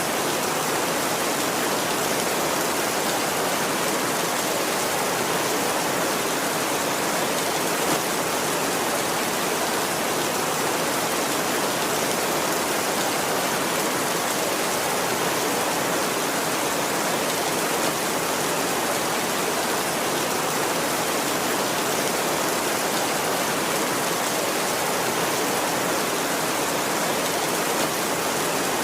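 Heavy rain falling steadily on a tin roof, an even hiss without thunder.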